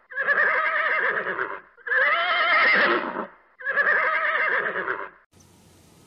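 Horse neighing: three whinnies of about a second and a half each, back to back, with a wavering pitch. They stop about five seconds in, leaving only a faint hiss.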